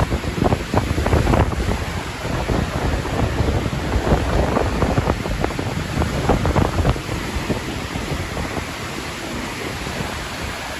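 Strong gusty wind buffeting the microphone with a low rumble, beach surf washing behind it; the gusts ease somewhat near the end.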